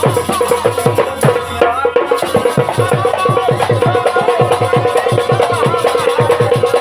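Instrumental break in Rai folk music: a fast, even drum beat of about five strokes a second under a sustained melodic line.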